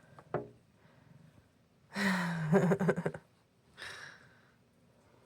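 A person's wordless low-pitched vocal sound about two seconds in, lasting about a second and wavering toward its end, followed by a breathy exhale.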